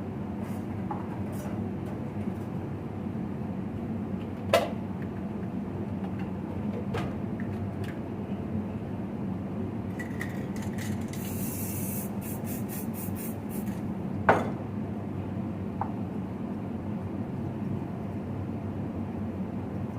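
Steady low mechanical hum, with a short hiss of spraying in quick pulses a little past halfway and two sharp knocks, one early and one later.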